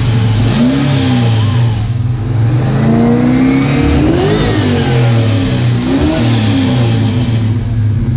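1957 Chevrolet Bel Air's engine idling with a deep exhaust note and being blipped three times: a short rev about a second in, a bigger, longer rev in the middle, and another short one near the end.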